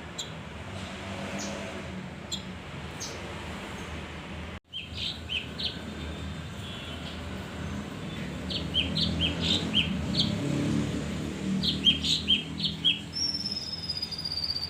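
Male kinoi songbird calling in quick clusters of short, high chirps, ending with a long falling whistle, over a low background rumble. The sound drops out for an instant just after four seconds in.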